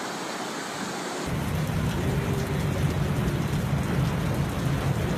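Steady rushing storm noise, with heavy rain and wind on the microphone. It changes abruptly about a second in to a louder, rougher rush with deep rumbling.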